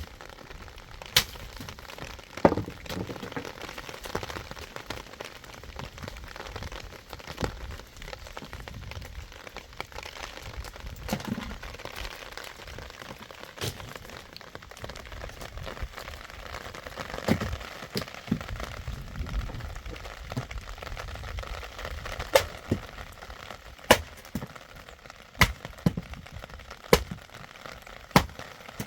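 Steady rain hiss, with sharp knocks at irregular intervals that come about every second and a half near the end.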